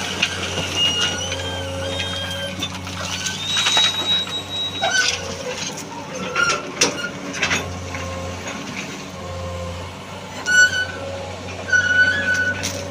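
Excavator's engine running steadily under short high squeaks and a few sharp knocks.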